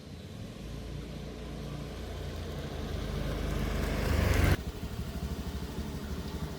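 A vehicle engine running and growing steadily louder, then dropping off sharply about four and a half seconds in to a quieter, pulsing low rumble.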